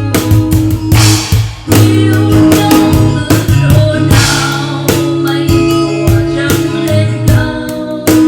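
Live bolero music: guitar and drum kit playing, with a singer's voice.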